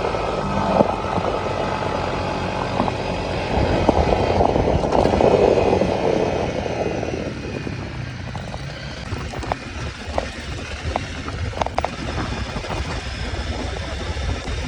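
ATV engine running under a heavy rush of wind and trail noise, which dies down about halfway through as the machine eases off. The engine then runs on more quietly, with scattered clicks and knocks from the trail.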